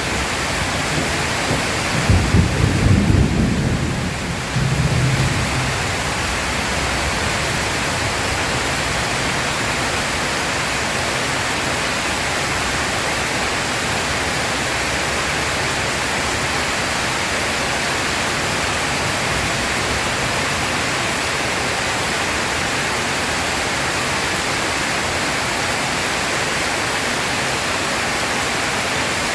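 Heavy rain pouring steadily, with a low rumble of thunder about two seconds in that swells twice and dies away by about six seconds.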